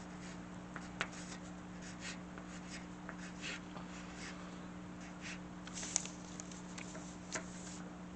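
Faint scratching strokes of drawing on paper, short and irregular, over a steady low electrical hum.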